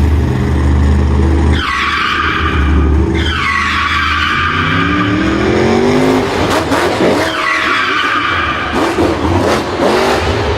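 Racing engines revving, rising in pitch near the middle, with tyres squealing and skidding three times.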